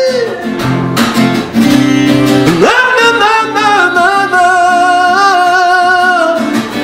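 Sertanejo song with acoustic guitar. The singer slides up into a long held note with vibrato about three seconds in, letting it go near the end.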